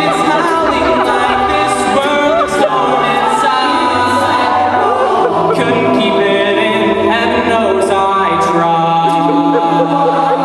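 A cappella vocal group singing in harmony, several voices holding chords over a sung bass line, with vocal percussion clicks on top.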